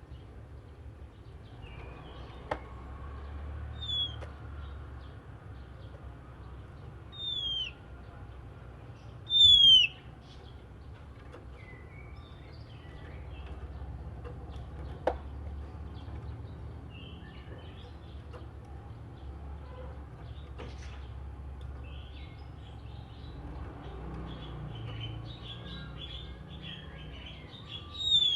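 Oriental magpie-robin singing: a few clear down-slurred whistles, the loudest about nine seconds in and another near the end, between soft scattered chattering notes. A low steady rumble runs underneath.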